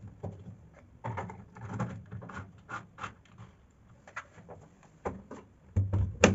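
A run of irregular clicks and knocks, like objects being handled and set down, with a louder knock near the end.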